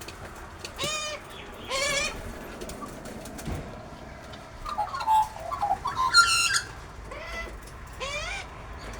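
Wild birds calling: several short calls that rise and fall in pitch, and a louder burst of busy chattering calls around the middle.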